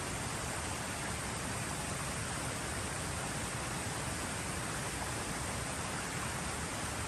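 Creek water rushing steadily, an even noise with no breaks.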